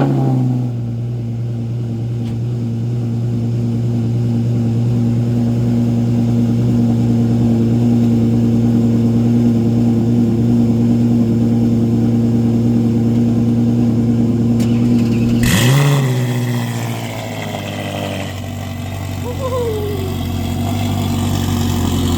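Ferrari engine idling steadily, then revved once sharply about fifteen seconds in, after which it settles to a deeper, lower idle.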